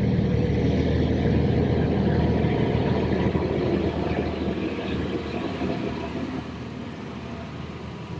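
Vehicle engine idling steadily with a low, even hum. It cuts in and off abruptly and slowly gets a little quieter.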